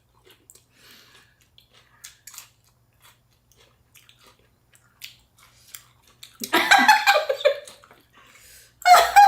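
Close-miked chewing of fresh rice-paper spring rolls with shrimp and vegetables: soft, wet mouth clicks and smacks. About six and a half seconds in, and again near the end, a person's voice breaks in briefly and loudly.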